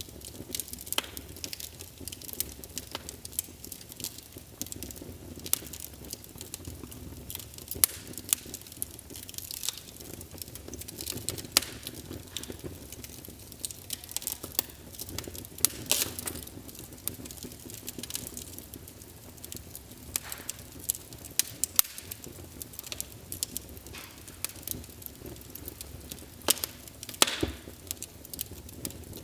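Crackling of a wood fire from a fireplace sound emulator: irregular sharp pops and snaps, some louder than others, over a low steady rumble.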